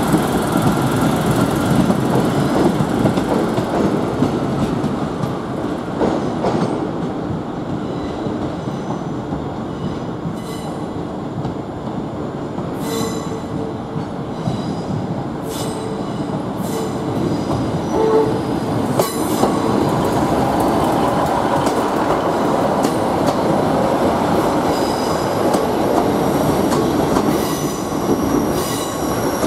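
ScotRail class 156 diesel multiple units moving through the station throat: a steady run of diesel engine and wheel noise, with several short high wheel squeals and clicks over the pointwork in the middle, as a second unit runs in and passes close near the end.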